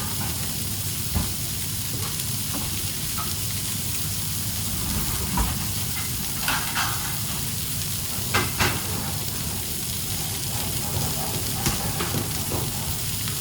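Food sizzling steadily in a hot pan on a kitchen line, over a low rumble, broken by scattered sharp clinks and knocks, the loudest a quick pair about eight seconds in.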